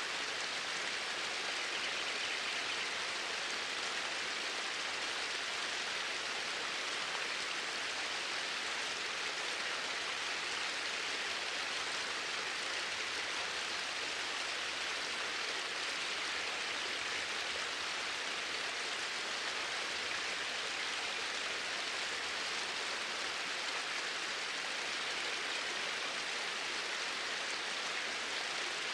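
Flowing water, a steady even rush with no breaks or changes.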